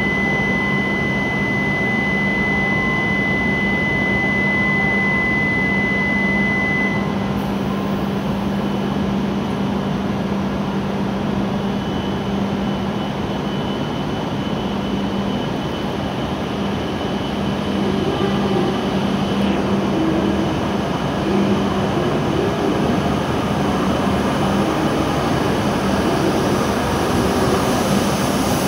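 E7 series Shinkansen train at a platform: a steady mechanical hum and rush. For about the first seven seconds a steady high-pitched warning tone sounds as the doors and platform gates close. In the second half the train's running sound changes as it starts pulling out of the station.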